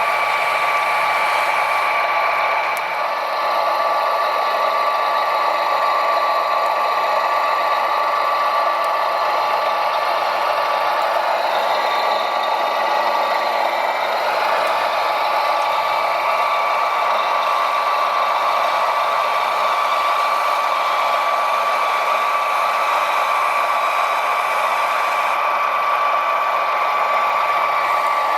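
Electric drive motors and gearing of radio-controlled construction machines whining steadily, with a constant high whine and a rattling mechanical hum.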